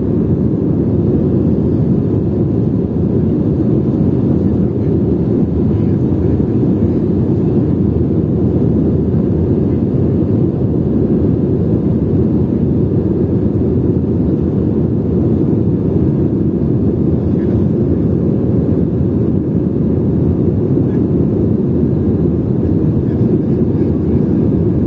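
Steady low drone of an airliner's jet engines, unchanging in level and pitch, with a faint steady hum over it.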